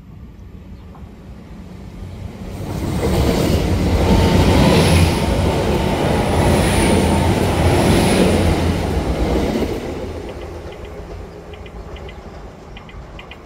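Great Western Railway passenger train passing close by at speed. The noise swells about two and a half seconds in, stays loud for about seven seconds, then fades away near the end, with a faint high whine while it is loudest.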